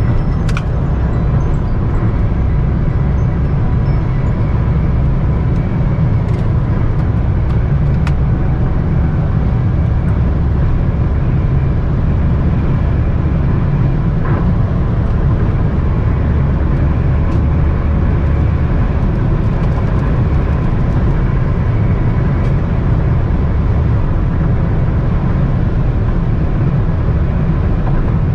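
Steady deep rumble of a Toyota Camry 3.5Q (GSV40) at speed, as heard inside the cabin: tyre, wind and engine noise running evenly, with a few faint ticks.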